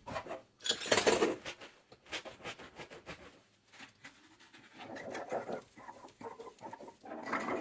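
Dishes being hand-washed at a sink: irregular squishing and rubbing of a soapy sponge with small knocks of dishware, loudest about a second in and busier again near the end.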